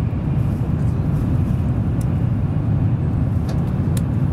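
Cabin running noise of an N700 series Shinkansen at speed, heard from inside the car: a steady low rumble with a rush of air and rail noise, and a few faint ticks.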